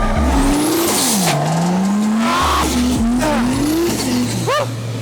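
Drift car's engine revving up and dropping back several times, with tyres squealing as it slides.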